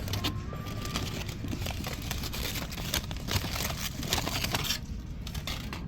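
Bonfire crackling: a dense run of sharp snaps and pops over a low rumble, thinning out near the end.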